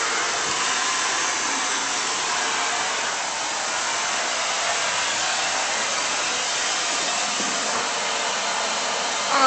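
Vacuum cleaner running steadily, an even whooshing motor-and-air noise. A brief louder sound with falling pitch comes at the very end.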